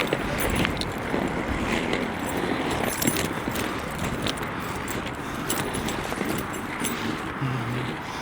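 Skate wheels rolling over city pavement: a steady rumble with scattered clicks and rattles throughout.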